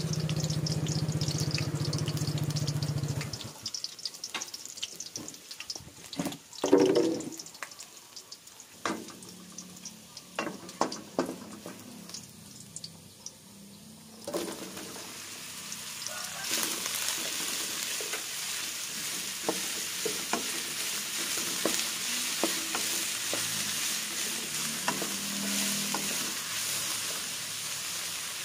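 A low steady hum for the first few seconds, then scattered knocks and clatter of bowl and utensils. About 14 seconds in, a loud sizzle starts as sliced wild mushrooms go into hot coconut oil in a stainless steel wok. It grows stronger a couple of seconds later and keeps going while a spatula stirs them.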